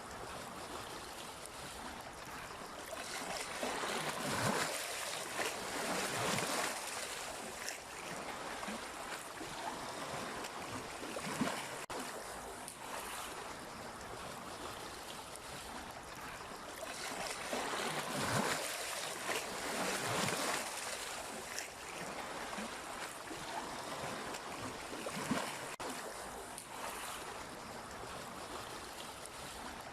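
Sea waves washing ashore: a continuous hiss of surf that swells and fades in slow surges, with a couple of brief sharper splashes.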